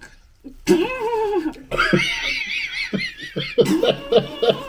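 People laughing without words, a high wavering giggle in the middle, then a quick run of ha-ha pulses near the end.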